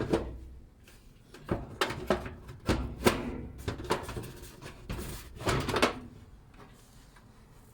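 Knocks and clicks of a washing machine's control panel being opened up and handled: about a dozen sharp knocks and rattles, several with a brief metallic ring, spread over about six seconds.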